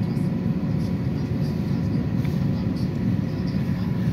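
Steady rumble of a city bus's engine and tyres heard from inside the passenger cabin while it drives, with a faint steady whine above it.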